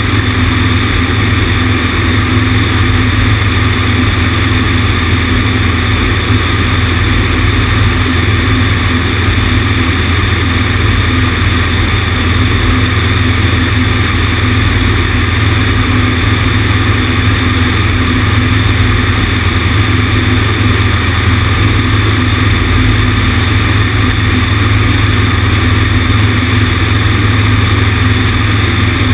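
Cessna 150's propeller and four-cylinder piston engine (Continental O-200) running steadily at constant power, with wind rushing over the wing-mounted camera.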